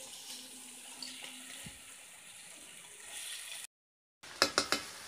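Catfish pieces frying in a wok with a steady sizzling hiss. After a brief dropout near the end, a spatula strikes the pan four times in quick succession.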